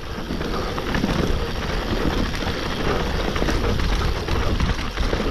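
Mountain bike descending fast on a dirt trail: steady wind rush over the microphone, with tyres on dirt and the bike rattling in many small knocks.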